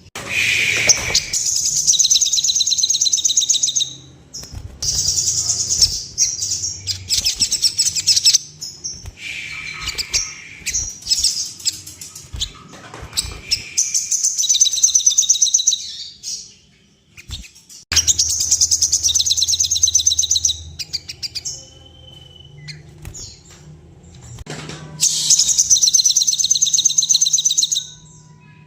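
Crimson sunbird (sogon) singing: very high, rapid trilling phrases, each two to four seconds long, about six times with short pauses between.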